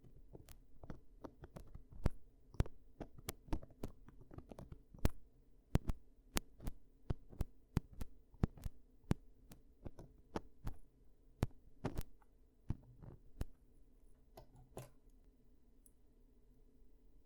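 Ear-cleaning sounds: a run of sharp, irregular clicks and taps, about two or three a second, that thin out and stop a couple of seconds before the end.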